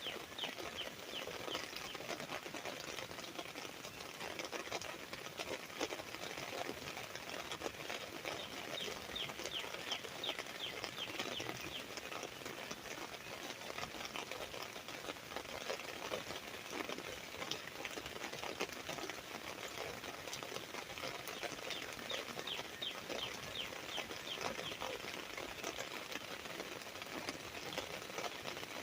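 Steady rain pattering on an umbrella as a dense run of small drop ticks. A bird sings short runs of quick repeated notes a few times over the rain.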